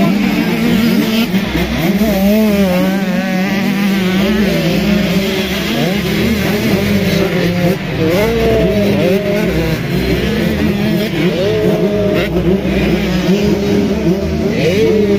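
Several motocross bike engines revving up and down as riders work the track, their pitches rising and falling and overlapping over a steady engine drone.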